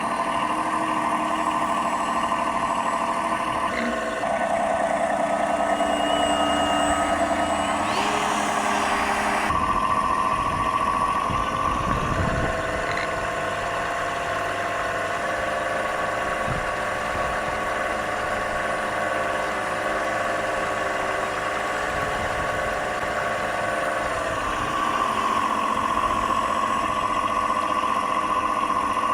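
Simulated diesel engine sound from the sound unit of a 1/12 scale Tyne class model lifeboat, heard on board as she runs. The note shifts in pitch and level a few times, erratic because the speed controller driving it was failing.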